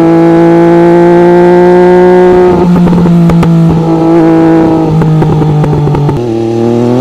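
An MV Agusta 798cc inline three-cylinder motorcycle engine, held at steady high revs through its exhaust. The revs waver with a few sharp cracks in the middle, then drop to a lower steady speed about six seconds in.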